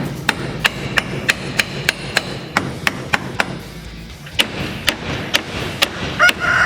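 Hammer blows on wood at a steady pace of about three a second, typical of nailing or tacking coop framing. There is a short pause about two-thirds of the way in before the blows resume.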